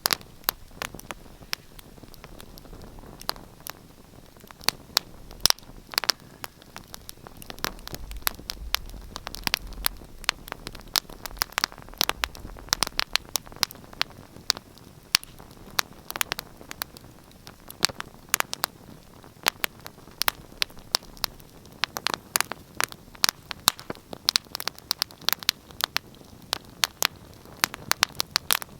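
Wood fire crackling in a fireplace: dense, irregular pops and snaps over a soft hiss. A faint low rumble swells for a few seconds about a third of the way in.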